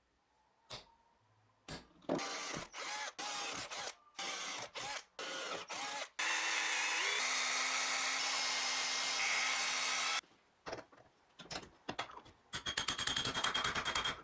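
Power drill running in several short bursts and then steadily for about four seconds, followed by a quick series of clicks.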